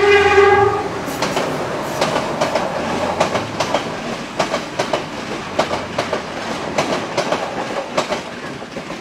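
Passing train: its horn holds a chord that stops just under a second in, then the wheels clatter over the rail joints in a run of sharp clicks, often in pairs, with a steady rumble underneath.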